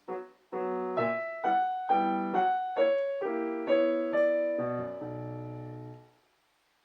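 Solo piano playing a short phrase of chords with a melody on top, struck about every half second. It ends on a held chord with a low bass note that fades out about six seconds in.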